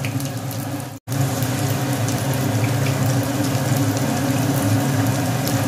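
Marinated chicken pieces shallow-frying in hot oil in a kadai: a steady sizzle with small crackles over a low hum. The sound breaks off for an instant about a second in.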